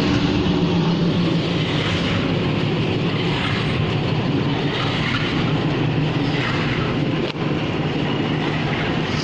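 Railway locomotive engines running steadily, a low hum under a constant noisy rumble, with a brief click about seven seconds in.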